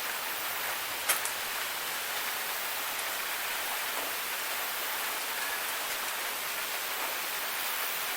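Waterfall, a steady rush of falling water, with one sharp tick about a second in.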